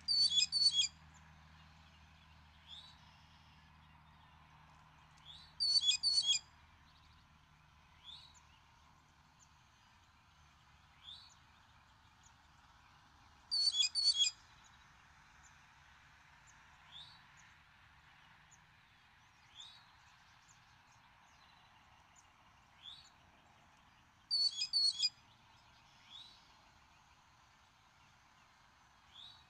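Small birds singing: a short, rapid, high-pitched phrase comes four times, 5 to 10 seconds apart, with a softer single rising note about every three seconds in between, over a faint steady hiss.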